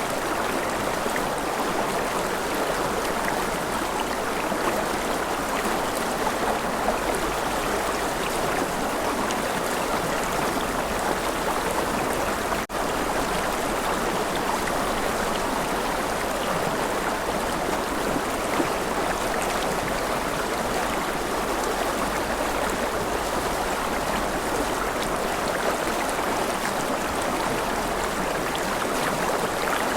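River water flowing steadily over rocks, a continuous rushing and burbling. There is a momentary dropout about twelve seconds in.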